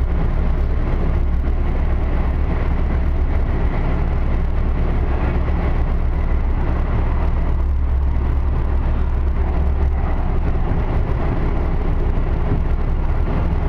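Expo Line light rail train running, heard from inside the car: a steady low rumble under an even hiss of wheel and track noise.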